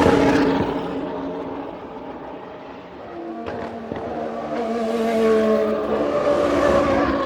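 Racing cars speeding past at high revs. One passes right at the start, its engine note dropping and fading. More cars then build up and pass about five and six and a half seconds in.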